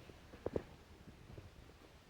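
Faint water trickling and gurgling, with scattered small plops at different pitches and two louder ones about half a second in.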